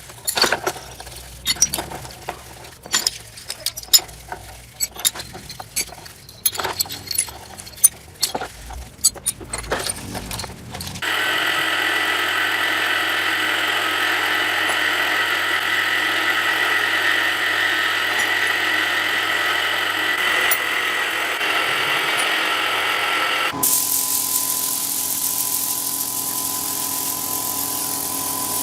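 Hand-tool work: irregular sharp clicks and knocks for about ten seconds. Then a power tool starts suddenly and runs steadily, and near the end the sound changes abruptly to a different steady power-tool tone.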